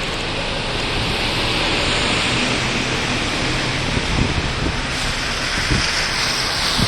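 Steady hiss of rain and wet-road noise from a moving car, over a constant low rumble.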